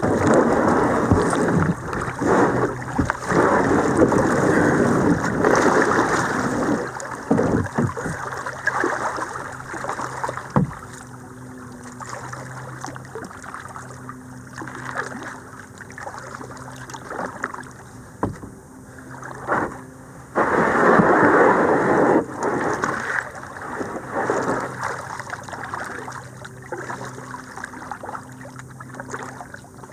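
Kayak being paddled: paddle strokes swishing and splashing in the water, with occasional knocks of the paddle or gear against the hull. It is loudest for the first several seconds and again about two-thirds through.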